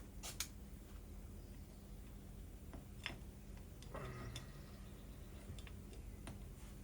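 A few faint, irregularly spaced clicks and light knocks of small metal brake parts and tools being handled, over a low steady hum.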